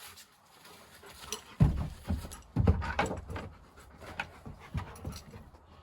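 Giant Schnauzer panting, with two heavy thumps about one and a half and two and a half seconds in, followed by lighter knocks and scrabbling.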